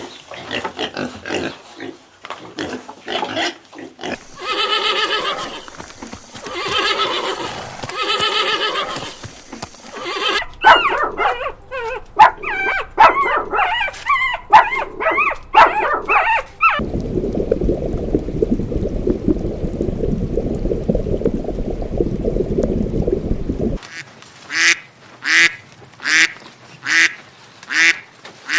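A run of different animal calls, one after another. The first part is loud pitched calls, some held for about a second. A low, steady rumbling sound follows for about seven seconds. Near the end comes a series of short calls, evenly spaced about once a second.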